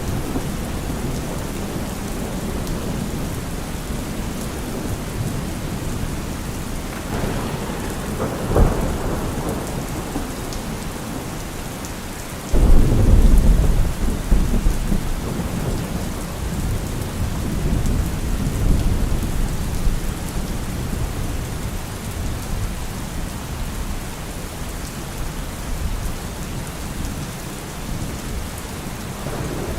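Heavy rain falling on a car roof with rolling thunder: a sharp crack about eight seconds in, then a loud low rumble that breaks suddenly a little before halfway and rolls on for several seconds.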